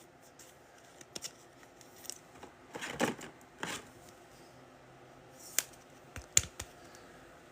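Trading cards being handled: a couple of brief swishes of cards sliding against each other about three seconds in, then a few sharp clicks and taps near the end.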